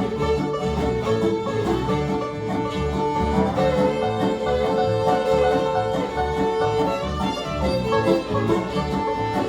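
Bluegrass band playing an instrumental break with banjo, fiddle and guitar over a steady beat, the fiddle holding long notes.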